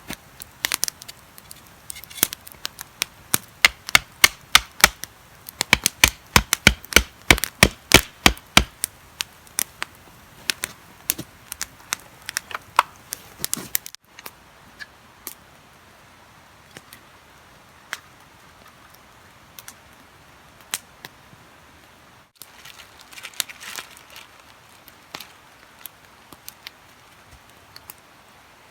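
Repeated sharp chopping strikes, about two a second, thinning out after several seconds; after a break, only scattered light clicks and taps with a short flurry near the end.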